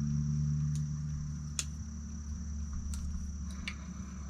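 A steady low hum that eases off about a second in, under a thin steady high-pitched whine, with a few faint clicks of small tools being handled.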